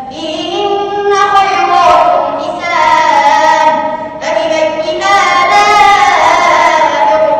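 A boy reciting the Quran in a melodic chanted style (tajwid), holding long high notes with ornamented glides in pitch. There are two long phrases, with a short breath about four seconds in.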